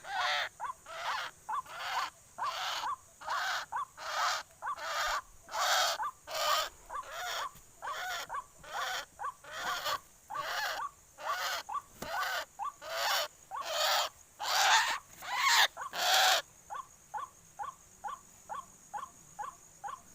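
White-breasted waterhen (ruak-ruak) calls: a loud, harsh call repeated about twice a second. Three-quarters of the way through the loud calls stop and a quieter, faster series of short notes follows, about three a second.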